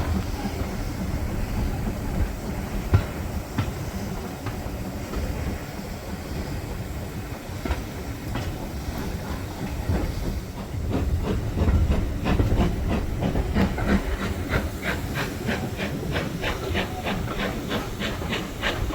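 Steam-hauled train heard from inside a carriage: a steady low rumble and rattle of the coaches running on the rails, with hiss. About halfway through, a regular beat of short strokes comes in, about three a second.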